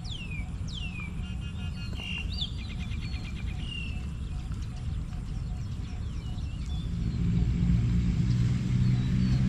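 A bird sings a few descending whistled notes and a quick trill over a steady low rumble. From about seven seconds in, a motor vehicle's engine hum grows louder as it approaches.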